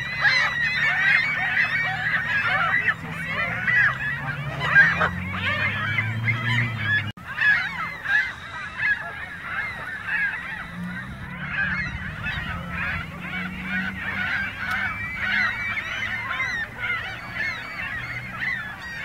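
A flock of geese honking, many calls overlapping continuously. A low drone rises in pitch twice underneath.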